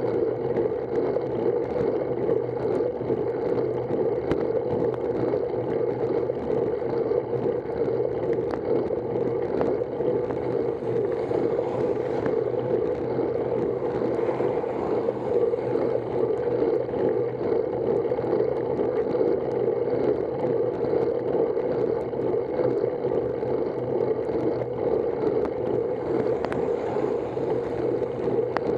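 Steady rushing noise of riding a road bicycle: wind across the microphone and tyres on the road, with many small ticks throughout.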